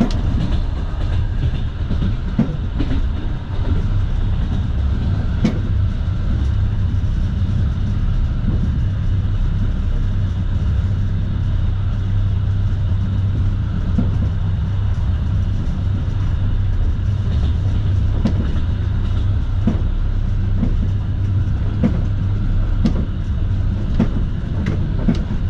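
Russian passenger train heard from inside the carriage: a steady rumble of wheels on the track, with sharp clacks every few seconds as the wheels cross rail joints.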